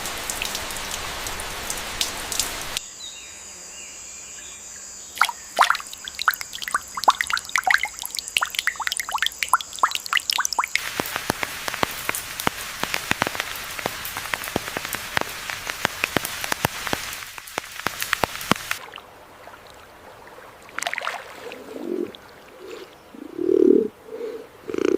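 Rainforest ambience in cut segments: steady rain hiss, then dense pattering and dripping of raindrops, for a while with a steady high insect-like whine over it. Near the end a dove coos in repeated low pulses.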